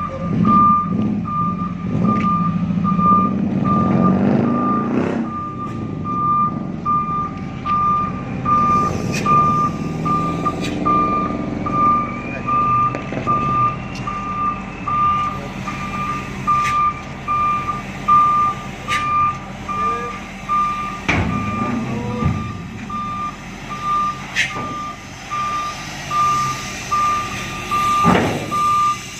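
Truck's reversing alarm beeping steadily at about two beeps a second over a running diesel engine, with a couple of loud clunks later on.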